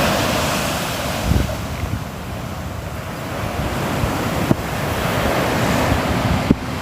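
Sea waves breaking and washing on the shore, the surf swelling and ebbing, with wind rumbling on the microphone and a few brief low thumps.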